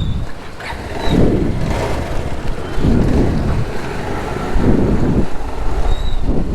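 Wind buffeting the microphone on a moving motorcycle, in surges every second or two over a low road and engine rumble.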